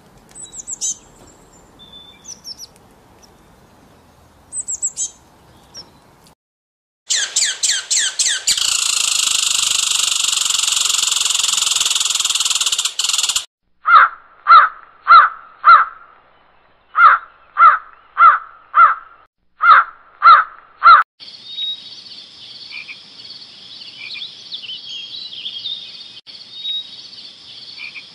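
A run of separate animal sounds. Faint high chirps from a small bird come first. Then, after rapid clicks, a loud, even buzz-like noise runs for about five seconds and cuts off suddenly. Next come about a dozen short, loud calls from jackdaws, one or two a second, and a steady high hiss closes the window.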